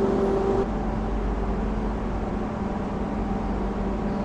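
Steady hum of a Renfe Alvia train standing at the platform, with several held low tones over an even background noise. Under a second in, a higher tone cuts off and the sound drops a little.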